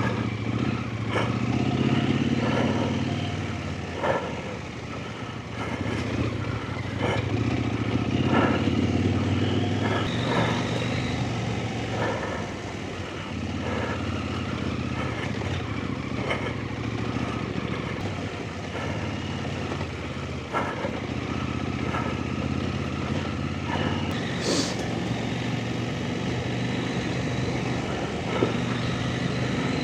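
Off-road trail motorcycle engine running steadily at low revs while the bike is ridden along a slippery, muddy lane, with occasional sharp knocks and clatters from the bike over rough ground.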